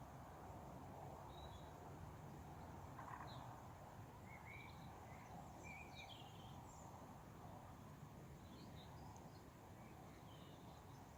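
Faint birdsong: scattered short chirps and brief phrases from small birds over a steady low background rumble.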